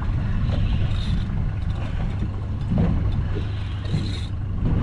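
Boat's motor idling with a steady low rumble, with a couple of brief higher-pitched scrapes or splashes about a second in and again near the end.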